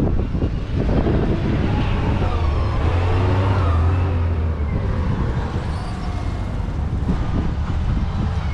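A heavy vehicle's engine running close by, a steady low hum whose pitch rises and falls through the middle seconds.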